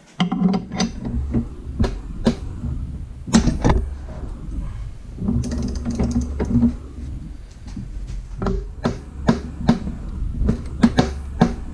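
Ball joint press screw being backed off with a hand wrench after seating a new ball joint in a control arm: irregular metal clicks and knocks over a low rumble.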